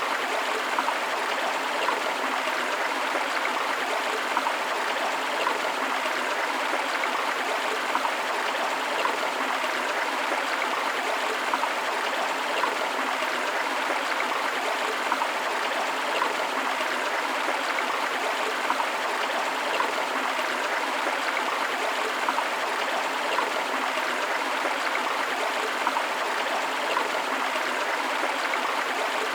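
River water running steadily, an even rush with small splashes.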